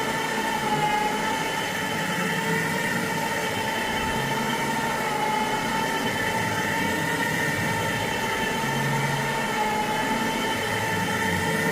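Carpet-cleaning extraction machine running, a steady whine with a rushing hiss.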